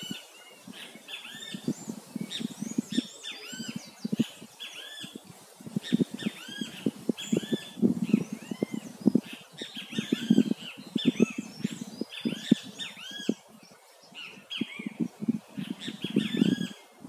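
Birds chirping over and over in short arched calls, over irregular low thumps and rumbles that are the loudest sound.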